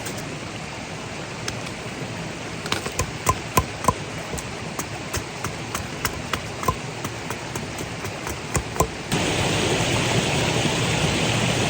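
Steady rush of a valley stream, with scattered sharp raindrop ticks as a sudden shower begins. About nine seconds in, a louder hiss cuts in abruptly.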